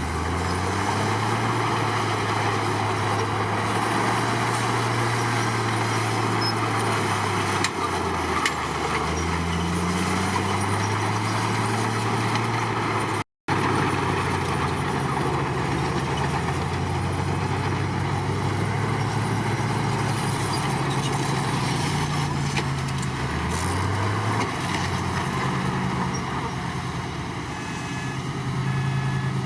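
Komatsu D53 crawler bulldozer's diesel engine working under load, its pitch rising and falling again and again as the machine pushes and changes speed, with track and machinery clatter throughout. The sound drops out for a moment about halfway through.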